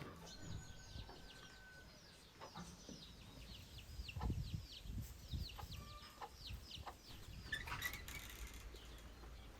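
Chickens peeping and clucking: a dense run of short, high, falling peeps, several a second. A few soft low thumps come about halfway through.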